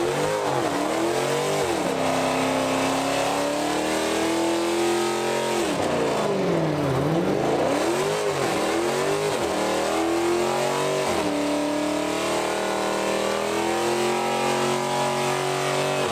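Car engine revving: several quick throttle blips that rise and fall, between longer stretches where the engine pitch holds and climbs slowly, as under steady acceleration.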